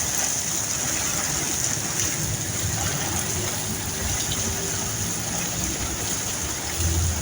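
Heavy rain falling steadily: an even, continuous hiss of a sudden downpour.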